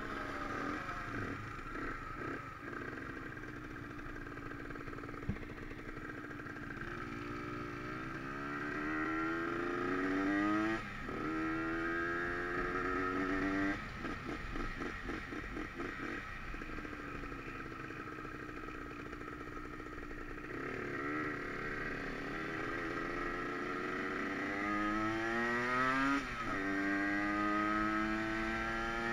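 Aprilia RS 125 motorcycle engine heard from on board while riding, its revs climbing and dropping sharply at gear changes about three times, with steadier running in between.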